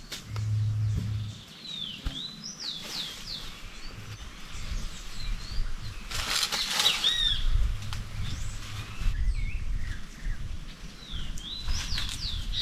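Small birds chirping in short, repeated downward-sweeping calls, with rustling and handling noises that are loudest about six to seven seconds in.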